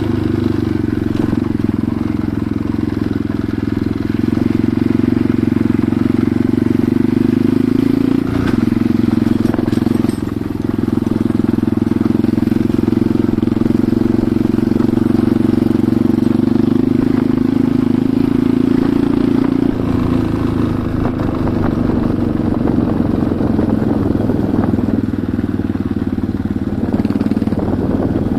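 Enduro motorcycle engine running steadily while being ridden, with a brief change about eight seconds in and a shift in engine note about twenty seconds in.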